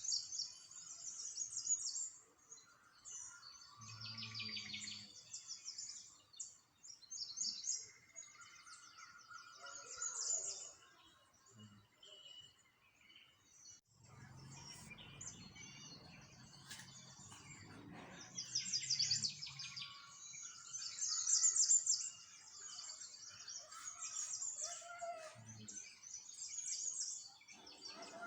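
Small songbirds chirping and twittering in quick high trills, several birds overlapping, with a low rumble in the background partway through.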